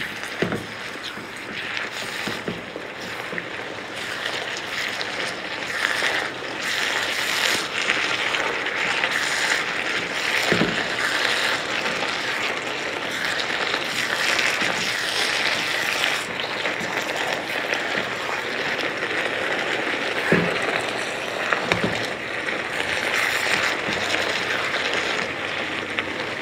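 Chicken and vegetables sizzling in a hot frying pan as they are stir-fried. A spatula knocks against the pan now and then.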